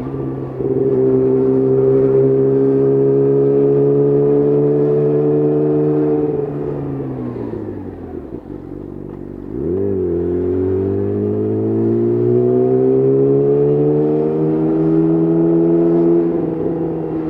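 Yamaha YZF-R6 inline-four with an Akrapovic exhaust, under way on a ride. It holds a steady, slowly rising note, drops in pitch and loudness as the throttle closes about six seconds in, gives a quick rev near ten seconds, then pulls again with the pitch climbing.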